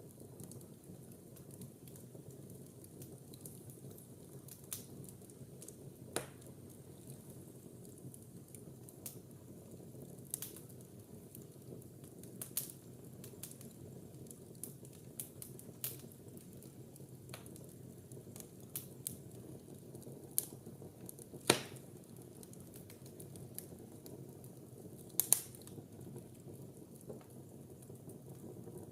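Wood fire burning in a fireplace: a steady low rush from the flames with irregular crackles and pops, two of them sharp loud snaps, about two-thirds and seven-eighths of the way through.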